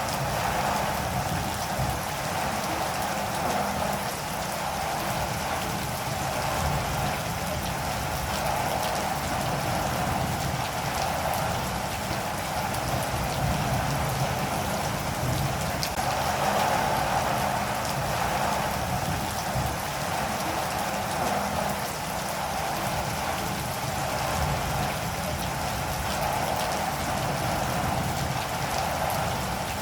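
Steady rainfall, an even, unbroken hiss of falling drops.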